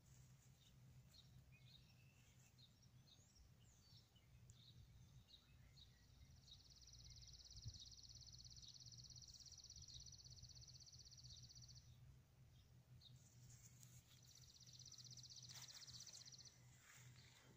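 Faint birdsong: scattered short high chirps, then a long dry high trill lasting about five seconds, and a second, shorter trill near the end, over a faint steady low hum.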